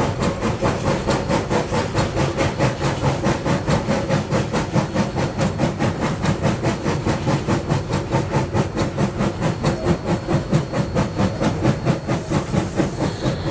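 Narrow-gauge steam locomotive exhaust chuffing at a steady, even rhythm of about four to five beats a second, heard from the cab with hiss and rail rumble beneath. The engine is working lightly.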